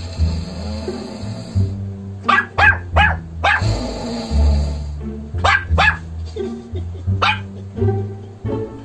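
A Shih Tzu barks in short, sharp barks, several in a row in small clusters, over background music with a steady bass line.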